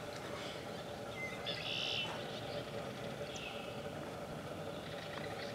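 Birds singing: a high, buzzy song about a second and a half in and a shorter one about three seconds in, over a steady low background noise.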